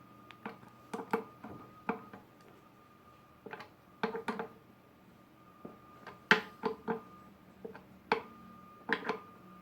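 Irregular sharp metallic clicks and knocks, about a dozen, from hand tools and the metal parts of a Makita N1900b electric planer being handled during blade fitting.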